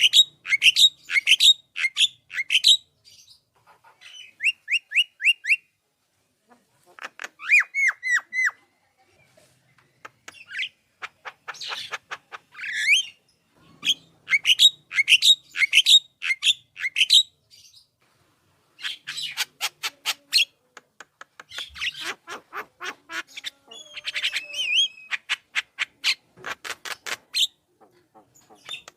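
Javan myna singing in full voice: phrases of rapid, sharp repeated notes mixed with harsh squawks and short whistles, each burst lasting one to three seconds with brief pauses between.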